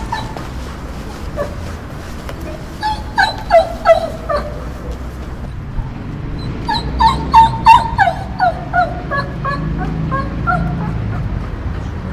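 Dog crying: short, high whimpering yelps that fall in pitch, in two runs, one about three seconds in and a longer one from about six and a half seconds, over a steady low rumble.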